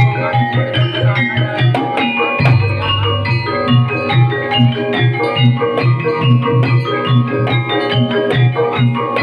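Banyumasan ebeg accompaniment music: a keyboard and struck melody instruments over a steady drum beat. A deep low note comes in about two and a half seconds in.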